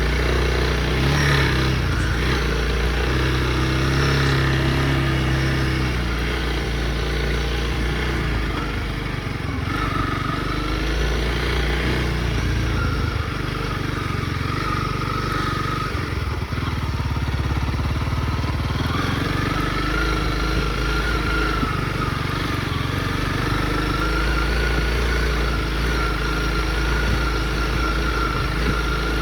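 Honda CRF motorcycle engine running steadily while riding, its pitch rising and falling a little with the throttle.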